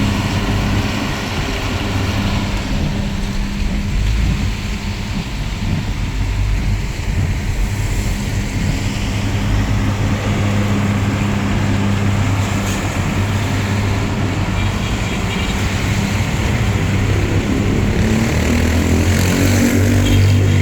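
Motor vehicle engine running with a steady low hum over road noise while driving. The hum grows stronger near the end.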